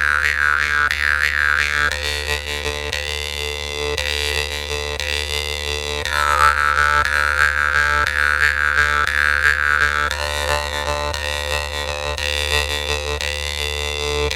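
Khomus (Yakut jaw harp) playing a steady drone, plucked rapidly and evenly, with a bright overtone melody that shifts pitch a few times.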